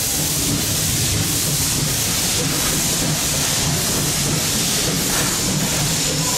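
A steam train's passenger carriages rolling past on the rails: a steady rumble with a continuous hiss over it and faint regular wheel clicks.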